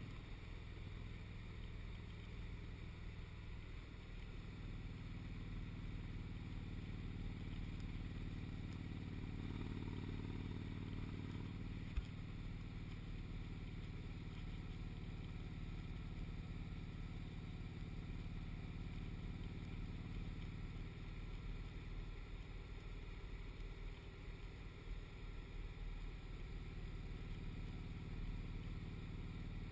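Motorcycle engine running at a steady cruise with road and wind noise, heard from the moving bike; a single sharp click about twelve seconds in.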